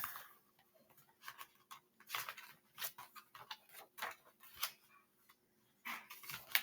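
Faint, irregular rustles and clicks of a paper book's pages being handled and turned.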